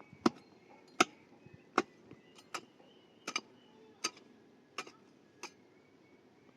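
Eight evenly spaced blows of a hand tool, such as chopping or hammering, about one every three-quarters of a second. The first few are sharpest and the later ones weaker.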